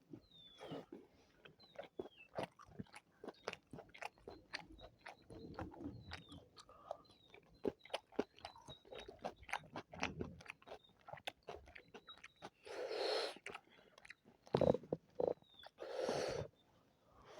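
Close-up mouth sounds of someone eating spicy chicken biryani: many quick wet clicks and crunches of chewing and biting. Two longer hissing rushes of noise come about thirteen and sixteen seconds in, the loudest sounds here.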